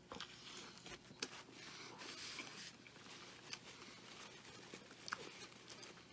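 Faint chewing of a large mouthful of Wendy's Triple Baconator burger, with a few soft mouth clicks.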